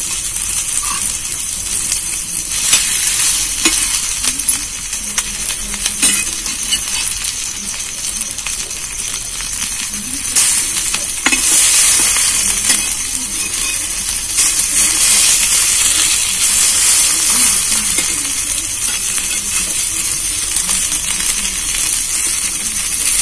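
Egg-battered bread slices sizzling in hot oil on a flat tawa. A metal spatula and spoon click and scrape against the pan a few times as the slices are turned over.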